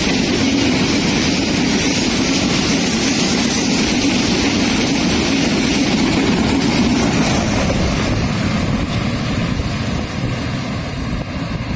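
Train passing close by: a loud, steady rumble that eases slightly about ten seconds in.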